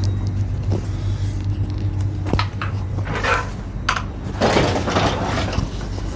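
Steady low hum of a train carriage, with scattered knocks and clatters.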